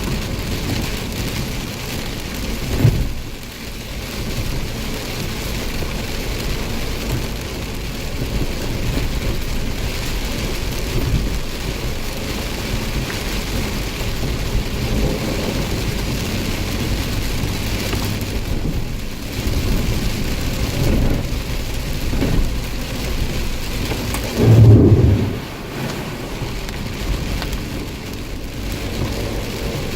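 Heavy rain falling steadily during a thunderstorm, with a deep, loud thunderclap rumbling about twenty-five seconds in and a brief, sharper loud knock about three seconds in.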